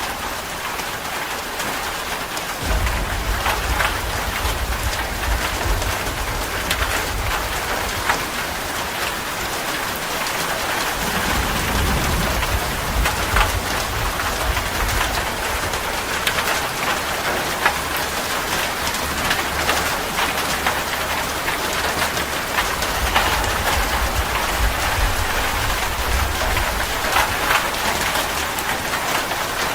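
Steady heavy rain falling, with a dense patter of individual drops ticking on a surface. A low rumble comes in underneath about three seconds in and continues, rising and falling.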